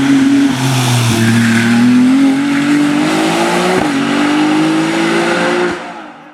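Race car engine at full throttle on a hill-climb course, the revs rising steadily with one gear change about two-thirds of the way through. The sound dies away quickly near the end.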